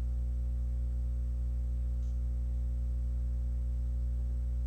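Steady low electrical hum with a buzzy edge, unchanging throughout: mains hum on the call's audio line.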